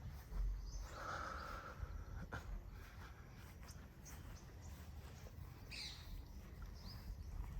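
Small birds chirping faintly in the trees, with a few short, downward-hooked chirps near the end, over a low rumble.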